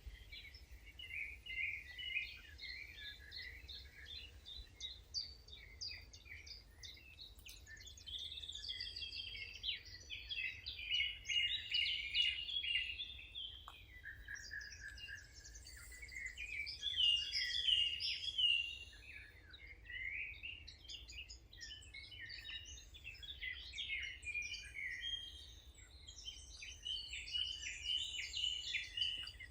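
Several songbirds singing and chirping together, a busy chorus of short high twittering phrases and trills, over a faint low steady hum.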